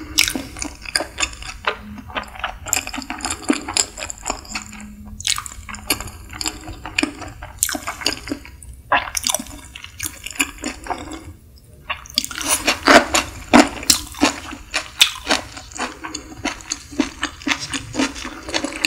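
Close-miked chewing of sushi: a steady run of quick wet mouth clicks, which drop off briefly just past the middle and then come back louder and denser with a fresh bite.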